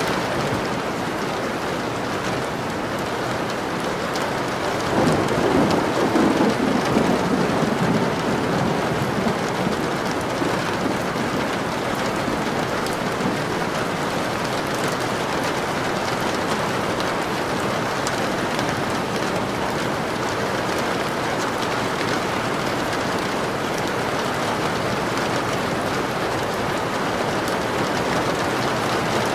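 Steady rain falling, with a rumble of thunder that swells about five seconds in and fades over a few seconds.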